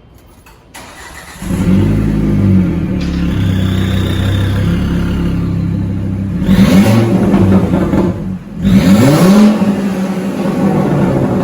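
Car engine cranking and starting about a second and a half in, then idling loudly through an exhaust with the muffler removed. It is revved twice in short blips, rising and falling.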